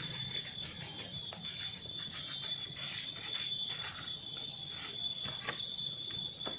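Steady high-pitched insect drone from the forest, with a few faint scattered knocks.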